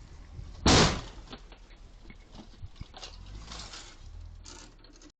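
A car collision: one loud bang of impact a little under a second in, then a few fainter knocks and rattles.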